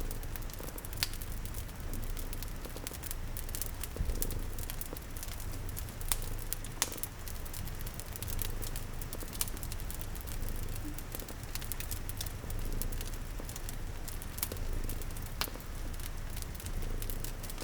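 Layered ambience of a cat purring in a low, steady pulsing rumble, a wood fire crackling with frequent sharp pops, and rain pattering.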